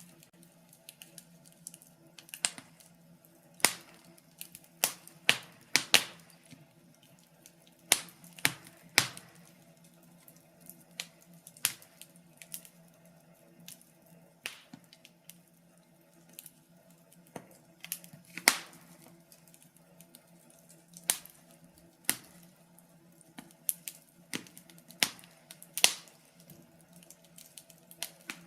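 Wood fire crackling in a fireplace: irregular sharp pops and snaps of burning logs, a few louder cracks among many small ones, over a faint steady low hum.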